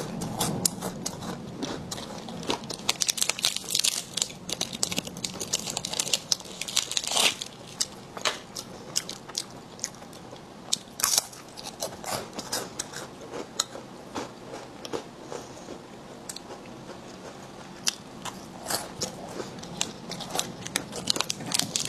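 Close-up biting and chewing of a crunchy chocolate oat crisp snack with a wafer-like texture: sharp crackling crunches, dense at first, sparser through the middle and picking up again near the end.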